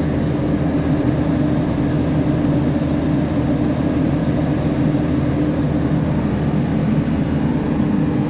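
Boom truck engine running steadily with its power takeoff engaged, a constant drone with a steady hum.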